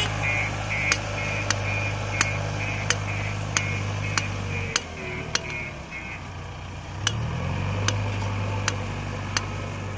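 JCB 3DX backhoe loader's diesel engine running steadily. It drops in speed about five seconds in and revs back up around seven seconds. A sharp tick repeats about every two-thirds of a second, and a rapid high pulsing tone stops about six seconds in.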